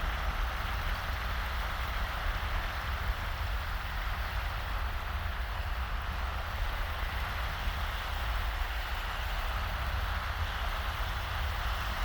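Small waves washing on a sandy beach, a steady hiss, under a low rumble of wind on the microphone.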